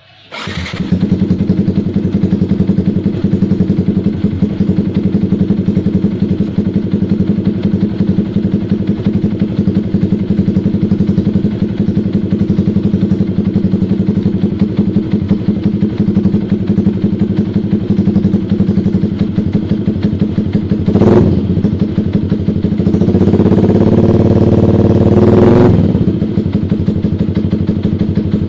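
Motorcycle engine running through an aftermarket racing exhaust ('Ara Racing' knalpot). It cuts in suddenly, idles steadily, gives a quick throttle blip about three-quarters of the way through, then a longer rev that rises, holds and drops back to idle near the end.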